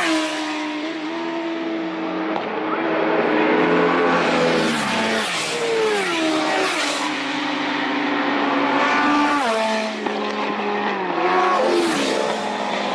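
Several superbike racing motorcycles running at speed, their overlapping engine notes each falling sharply in pitch several times.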